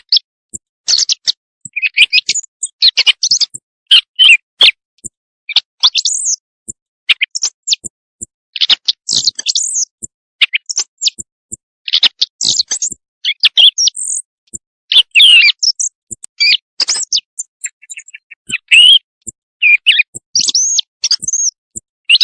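Recorded bird calls played as a night-time hunting lure, given as those of quail: a busy run of short, varied high chirps and trills broken by brief gaps.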